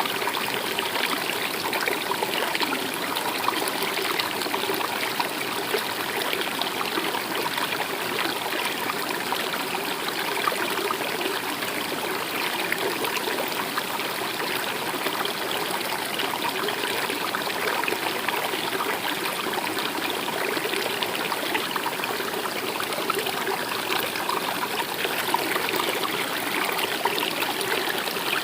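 Stream water running steadily, an even rushing and trickling flow.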